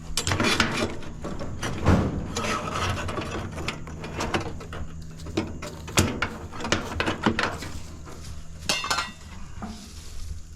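Scrap metal pieces clanking, rattling and scraping against each other as they are handled and loaded, with a couple of sharp metallic knocks. A steady low hum sits underneath.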